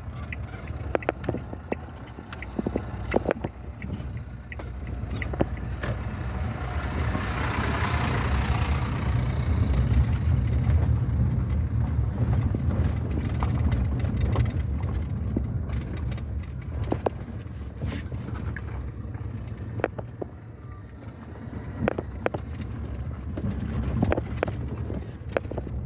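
A car driving, with a steady low rumble of engine and road and frequent short knocks and rattles. A rushing noise swells and fades around eight seconds in.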